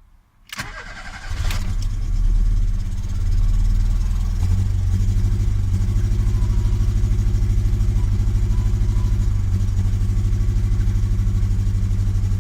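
Ford CVH four-cylinder petrol engine started, with its lambda sensor disconnected: a brief burst of starter cranking, then it catches and runs steadily with an even pulsing beat. The running is rough, which the owner likens to running on three cylinders.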